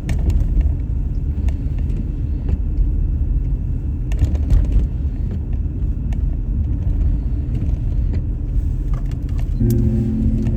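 A car driving on a snowy road: a steady low rumble of tyres and engine, with a few faint knocks. Music starts near the end.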